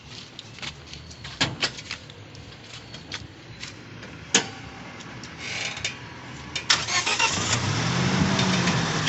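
A few sharp clicks, then about seven seconds in the Toyota Innova's gasoline VVT-i four-cylinder engine starts and runs, its revs rising and falling once. The engine has a misfire, which the mechanic puts down to one cylinder not firing properly.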